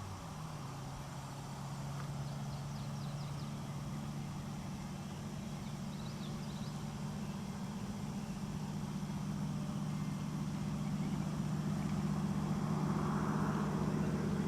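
A vehicle engine idling with a steady low hum, its pitch stepping up slightly just after the start. Faint high bird chirps come twice, and a broader noise swells near the end.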